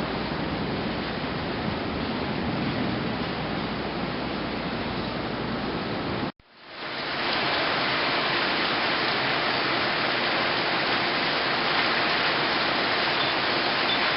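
Heavy tropical-storm rain pouring steadily as an even hiss. About six seconds in it cuts off abruptly and fades back within a second, then goes on with more hiss and less low rumble.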